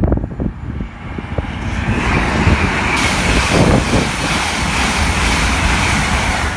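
A GWR Intercity Express Train passing at speed on the near line: an even rush of wheel and air noise that builds from about two seconds in and stays loud as the coaches go by. Wind buffets the microphone at the start.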